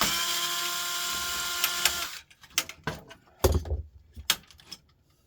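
Cordless power screwdriver running steadily for about two seconds as it drives out a printer screw, then stops. Scattered clicks and knocks follow, with one heavier thump about three and a half seconds in.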